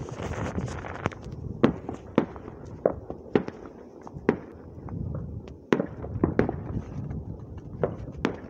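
Fireworks going off all around: an irregular series of sharp bangs and pops, some loud and some faint, over a low rumble.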